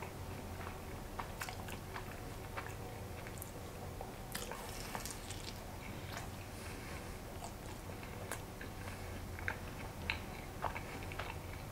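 A person chewing a mouthful of pretzel-crust pepperoni pizza with the mouth closed: soft, irregular clicks of chewing over a faint steady low hum.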